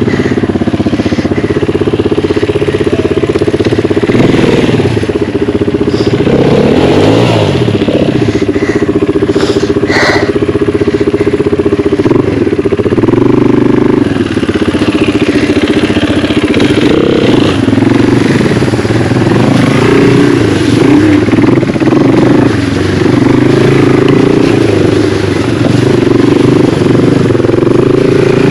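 Yamaha TW200's single-cylinder four-stroke engine running as the bike is ridden off-road, the revs rising and falling with the throttle. There is a sharp knock about ten seconds in.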